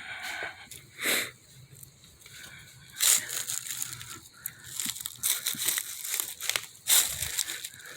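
Crunching and rustling in dry leaves, twigs and loose stones as someone scrambles over the creek bed, in irregular bursts that are loudest about three seconds in and again near the end.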